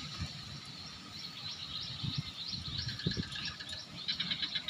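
Small birds chirping: a series of short rising chirps, then a quick run of evenly repeated high notes near the end.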